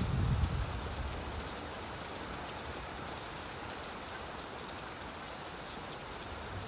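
Steady rainfall, an even hiss, with a low rumble of thunder dying away in the first second.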